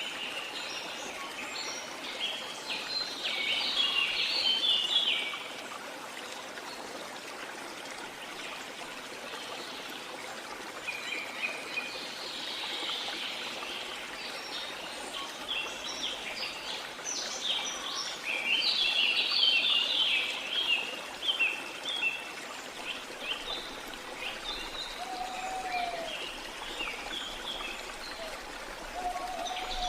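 Steady rush of waterfall water under many songbirds chirping in quick, dense high bursts: busy in the first few seconds, then again from about the middle almost to the end. Two short, lower gliding calls come near the end.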